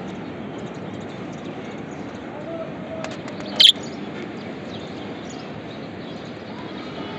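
Budgerigars chirping, with one loud, sharp call about halfway through and a few faint short calls, over a steady background hiss.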